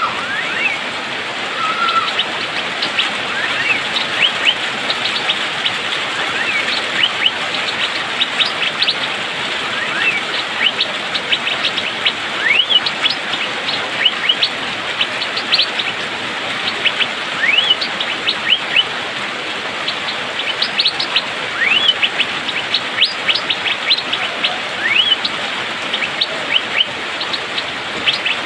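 Asian fairy-bluebird (cucak biru) calling in quick, dense runs of short, sharp upward-sweeping notes, over a steady hiss of rain.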